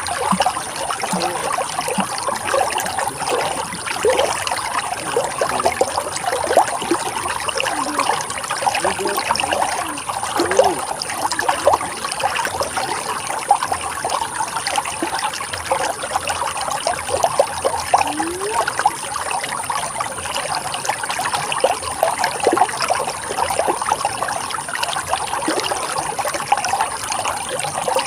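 Running water flowing and trickling, a steady rush dotted with many small gurgles and plops.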